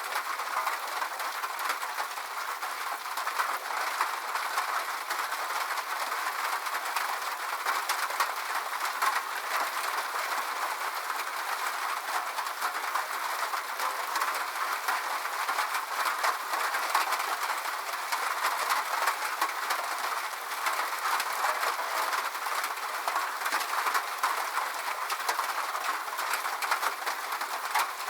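Steady rain: an even hiss dotted with dense ticks of individual drops, with no low rumble.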